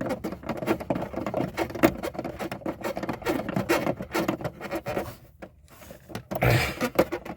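Irregular scratching, tapping and rubbing of hands and tools working at close range on the truck's accelerator pedal assembly, with a brief lull past the middle and a louder bump near the end.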